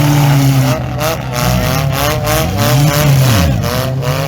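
Demolition derby car engines running and revving, their pitch rising and falling, with several cars sounding at once.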